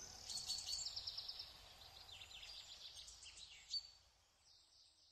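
Faint birdsong: quick high chirps and short rapid trills, thinning out and fading away near the end.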